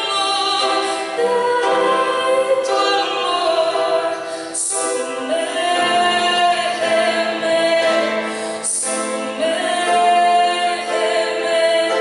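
A woman singing a Christian praise song, holding long sustained notes.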